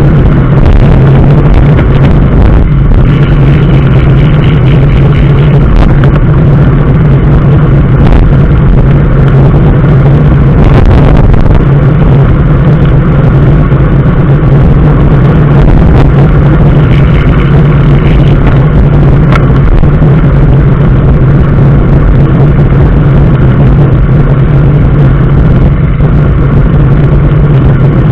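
A motor vehicle driving, its engine drone and road noise loud and steady, with no change in pitch.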